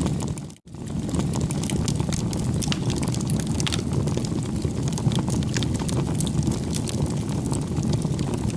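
Wood fire burning, with a steady low rumble and frequent sharp pops and crackles. The sound cuts out for a moment about half a second in, then carries on.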